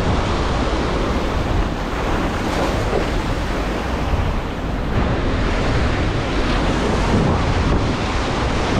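Steady wind buffeting the microphone over the wash of waves breaking on the shore.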